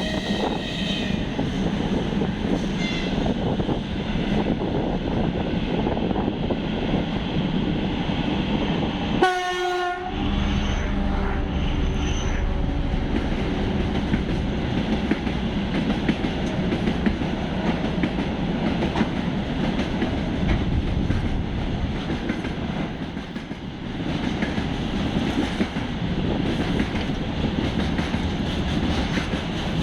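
A train running past with a steady rumble and clatter of wheels on rail joints; a short locomotive horn blast sounds about nine seconds in.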